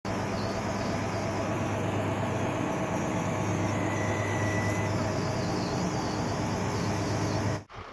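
Steady running noise of a road vehicle, with a low engine hum under an even haze of road noise; it cuts off suddenly near the end.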